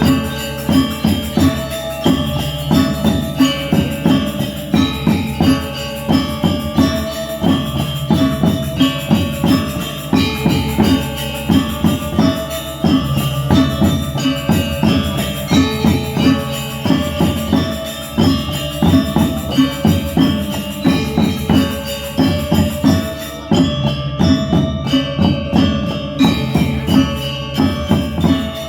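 Gamelan ensemble playing without pause: metallophones ringing in quick, changing patterns of pitched tones over steady drum strokes.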